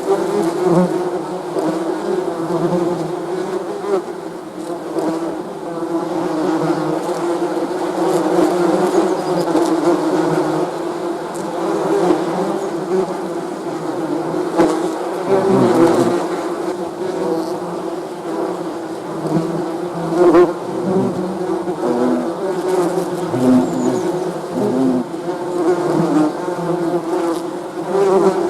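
Many bees buzzing together, a continuous dense hum whose pitch and loudness waver as individual bees pass close and move away.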